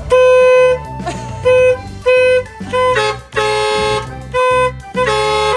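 Garbage truck horn honked over and over, about eight blasts of different lengths, a few of them sounding two tones at once.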